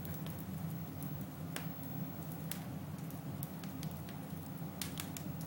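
Wood fire burning in a fireplace: scattered sharp crackles and pops over a steady low rumble, with a quick cluster of pops near the end.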